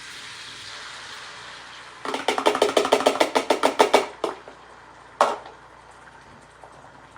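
Butter sizzling in a skillet, then a fork whisking eggs and cream in a bowl: rapid, even clicking, about nine strokes a second, for about two seconds. A single sharp knock follows about a second later.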